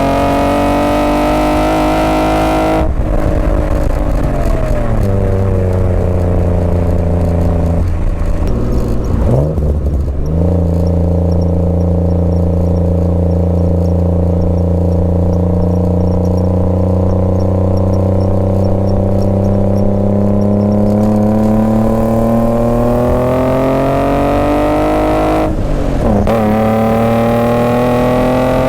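BMW E28's M50B25 inline-six running through stainless headers and a 3-inch stainless exhaust while driving. A high-revving pull is cut off about three seconds in and the revs fall away. After short breaks in the note like gear changes, it holds a steady cruise, then rises slowly through the revs with another shift near the end.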